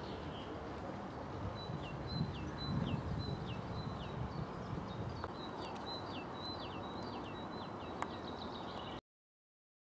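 A small bird calling in a rapid series of short, high, falling chirps over a faint steady outdoor background hiss. The sound cuts off suddenly near the end.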